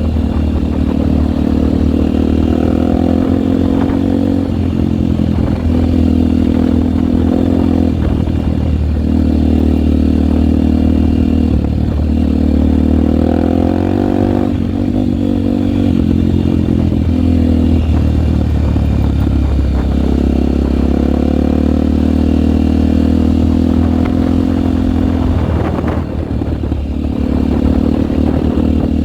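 Single-cylinder four-stroke trail motorcycle engine running under load while riding. Its pitch repeatedly climbs and then drops or breaks every few seconds as the throttle is worked and gears change.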